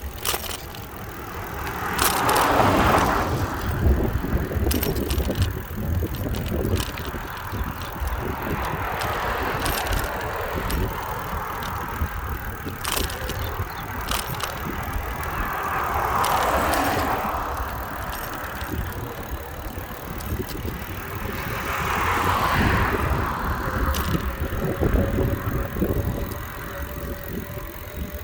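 Riding a bicycle along a road: steady wind rumble and road noise with scattered clicks and rattles from the bike, and passing vehicles swelling up and fading away three times, about two seconds in, around sixteen seconds and around twenty-two seconds.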